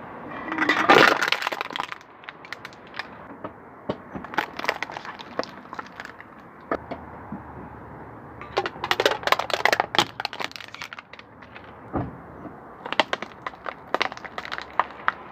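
Crunchy objects cracking and breaking under a car's tyres, in four bursts of rapid crackling, the first the loudest.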